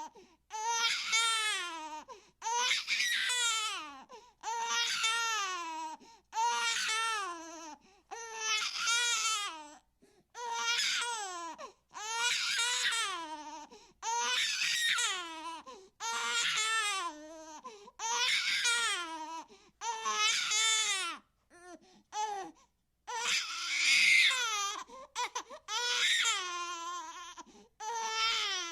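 A baby crying hard, in a steady run of wailing cries of about a second and a half each, one every two seconds or so with a short catch of breath between them. One cry near the end is louder and higher.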